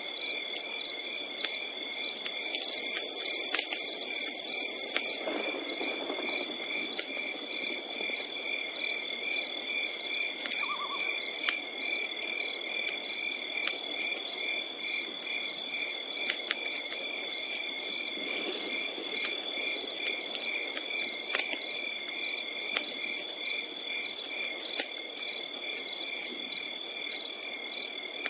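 Crickets and other insects chirping in a steady rhythmic chorus over a continuous high trill, with scattered sharp crackles and pops from a campfire burning.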